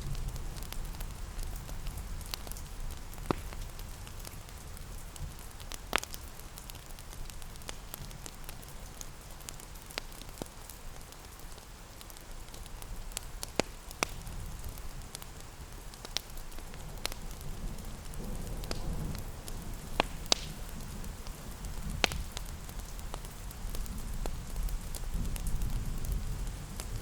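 Wood fire crackling in a fireplace, with scattered sharp pops every second or so, over a steady patter of rain and a low rumble that swells and fades.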